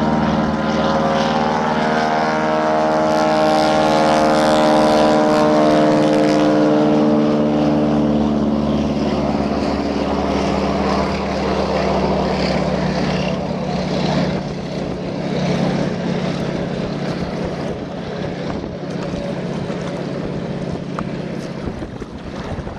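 Floatplane's propeller engine running at high power as it takes off, loudest in the first several seconds, then turning to a duller rumble that fades steadily as the plane flies away.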